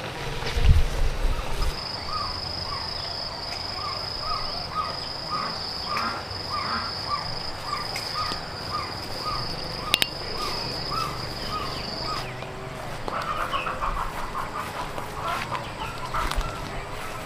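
Birds calling: a series of short repeated calls, about two a second, then a quicker flurry of calls. Under them a steady high-pitched buzz stops about twelve seconds in. There is a single sharp click around ten seconds.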